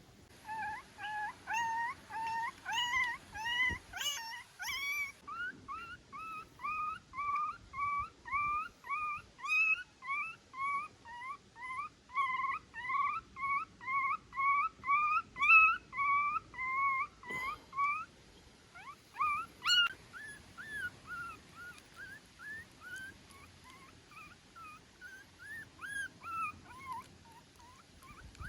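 Newborn puppy crying: a long run of short, high-pitched whimpering squeals, about two a second, louder for the first eighteen seconds and fainter after.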